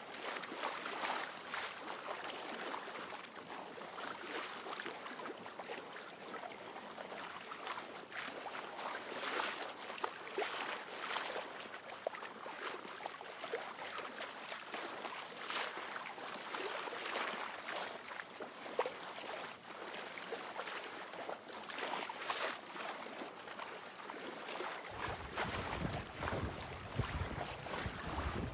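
Water rushing and splashing along a sailing boat's hull in irregular surges, with wind. About 25 s in, a low wind rumble on the microphone suddenly joins.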